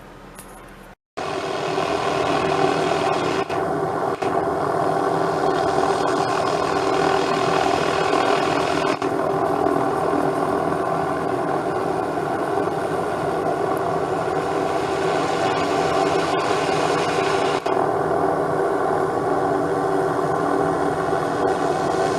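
MD500 turbine helicopter running close by: a steady, loud rush of rotor and turbine noise with several held tones, cutting in abruptly about a second in after a fainter stretch.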